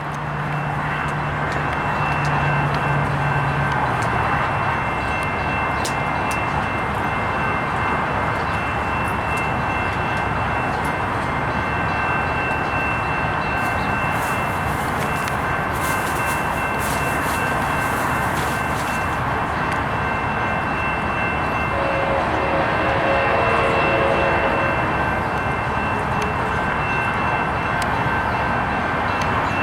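Amtrak EMD F59PHI diesel-electric locomotive and its passenger train running into a station: a steady heavy rumble and rail noise with a few steady high-pitched tones held above it, and a burst of crackling hiss in the middle.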